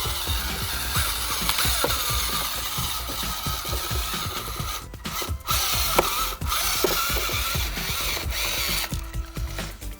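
Small electric motor and plastic gearbox of a DIY RC tractor whirring under load while it hauls a trolley loaded with bricks, a wavering whine with ratchety gear clicks. It cuts out briefly about five seconds in and again a little later.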